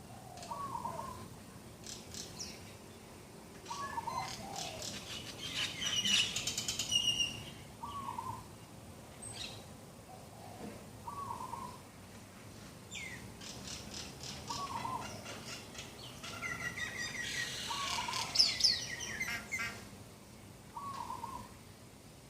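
Morning birdsong: one bird repeats a short low call about every three seconds, while other birds break in twice with bursts of rapid high chirping, the louder of the two near the end.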